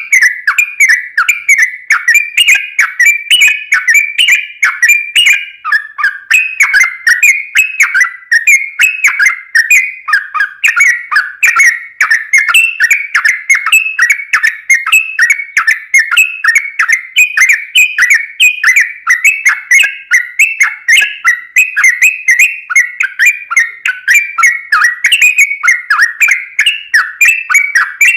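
Yellow-vented bulbul (trucukan) singing without a break: a fast, unbroken run of short chirping notes, about three or four a second.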